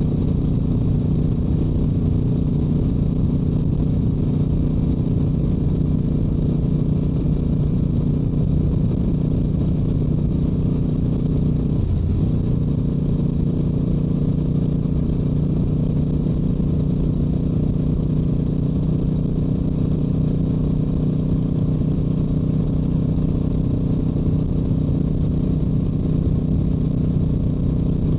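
Stock Yamaha YZF-R7's 689 cc parallel-twin engine and exhaust running at a steady highway cruise, with wind rumbling on the microphone. The engine note dips briefly about twelve seconds in.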